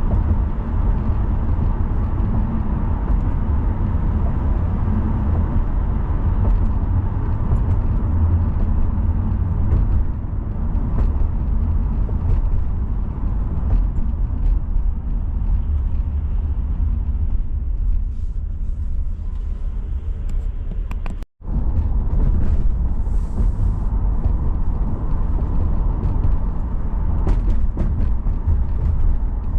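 A car driving on city roads: steady low engine and road rumble with tyre noise. The sound cuts out for a split second about two-thirds of the way through.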